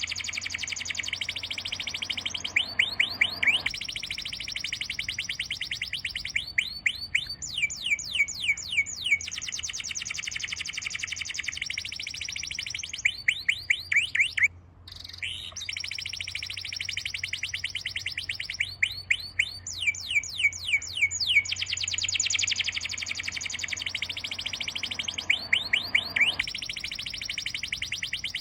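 Birds twittering in fast, high trills of downward-sliding notes, with louder groups of sweeping notes recurring every few seconds and a brief drop-out about halfway through.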